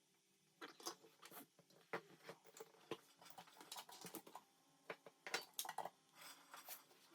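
Faint, irregular clicking and scraping of small hard objects being handled, starting about half a second in.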